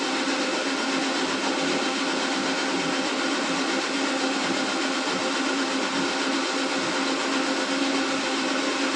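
Electric motor of a household appliance running steadily: a loud, even whir with a constant hum, switched on as the loud noise that scares the kitten.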